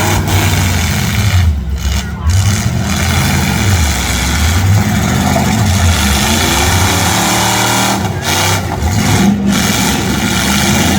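Several V8 derby car engines revving loudly, their pitches rising and falling over one another as the cars rev, back up and drive.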